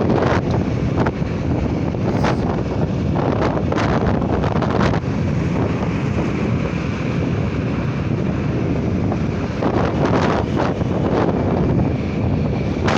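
Wind buffeting the microphone on a moving motorcycle, with a steady rush of engine and road noise underneath and irregular gusts.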